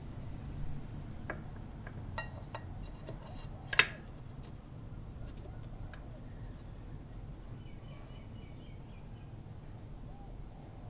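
A few scattered clicks and taps, with one sharp, louder click about four seconds in, over a steady low hum.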